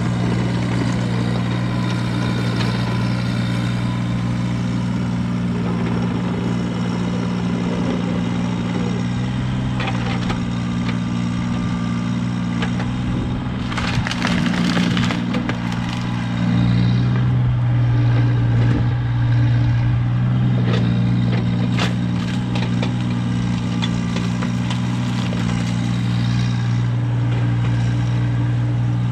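Diesel engine of heavy work machinery running steadily, with a short rough, gritty burst about halfway through and the engine working a little harder soon after.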